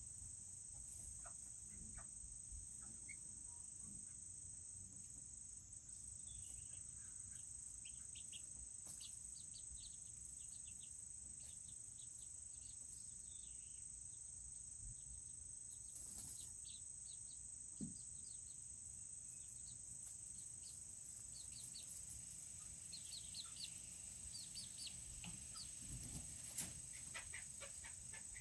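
Serama chickens chirping softly here and there, the short high chirps coming more often near the end, over a steady high-pitched drone of crickets.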